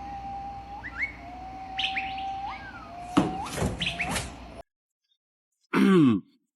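A pet bird whistling long held notes, each ending in a quick upward flick, with a few short chirps between them. The sound cuts off suddenly, and a short falling sound comes just before the end.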